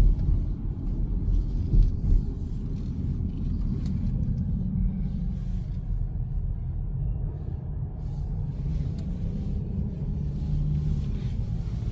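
Steady low rumble of a car driving, engine and tyre noise heard from inside the cabin, with a couple of louder bumps in the first two seconds.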